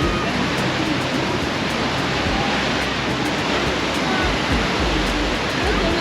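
Steady roar of Niagara Falls' falling water, with wind gusting on the microphone.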